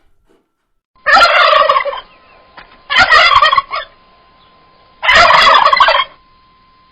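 A farm bird calling in three loud bursts, each about a second long, roughly two seconds apart.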